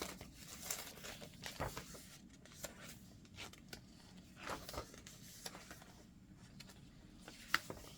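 Faint rustling and soft taps of the paper pages of a handmade junk journal being handled and turned, with one sharper click about seven and a half seconds in.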